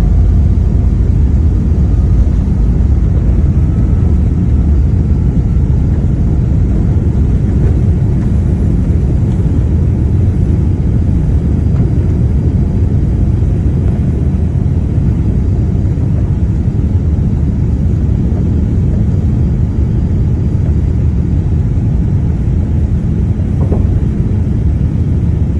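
Boeing 787 jet engines at takeoff thrust: a loud, steady, deep rumble that eases slightly over time, with a faint whine rising in pitch in the first few seconds.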